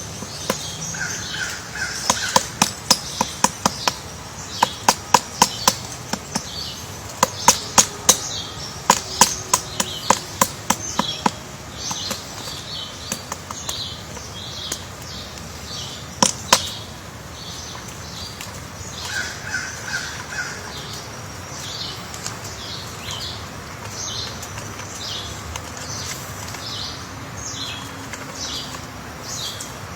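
Woodpecker pecking into wood while excavating its nest hole: a string of sharp, loud knocks, irregular at one or two a second, for about ten seconds, then a single knock a few seconds later. High bird chirps repeat throughout.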